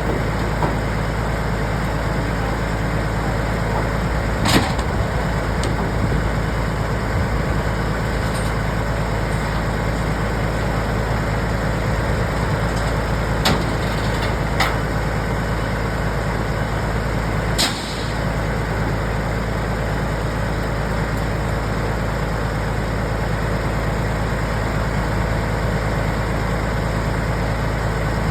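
Heavy vehicle engine running steadily, with a few short sharp knocks or clanks.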